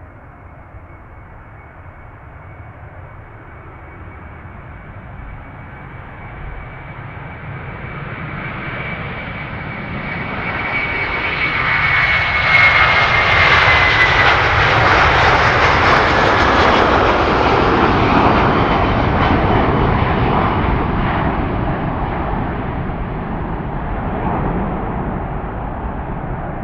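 Jet airliner's engines passing by: the sound builds steadily to a peak about halfway, a high engine whine drops in pitch as the aircraft goes past, and the sound then slowly fades.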